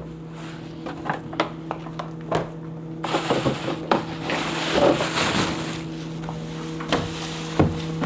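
Kitchen food-preparation handling: a string of short clicks and knocks of utensils and containers over a steady hum. From about three seconds in, a rustling hiss joins them.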